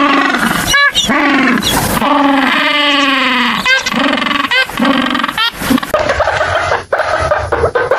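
African penguin braying: a run of loud honking calls that rise and fall in pitch, the longest near the middle. About six seconds in the calls stop and a scratchy rustling noise takes over.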